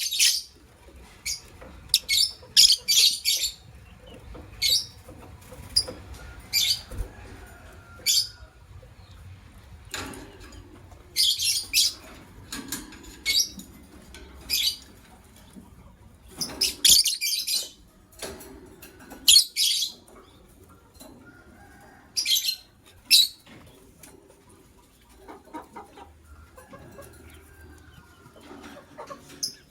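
Lovebirds chirping: short, shrill, high-pitched chirps in irregular clusters every few seconds, with quieter gaps between.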